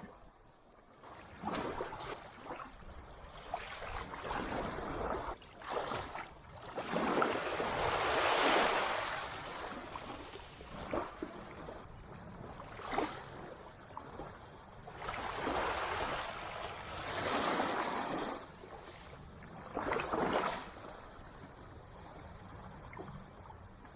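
Water sloshing and splashing in irregular swells a second or two long, with a few sharp knocks in between.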